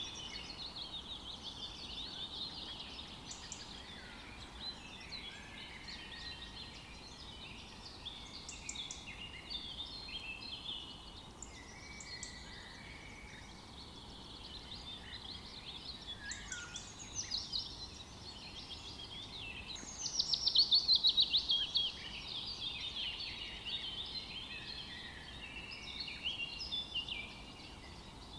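Chorus of several songbirds singing and chirping without a break, with a louder rapid trill about two-thirds of the way through.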